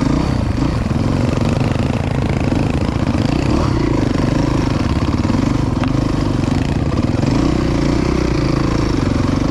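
Dirt bike engine running steadily while riding a sandy trail.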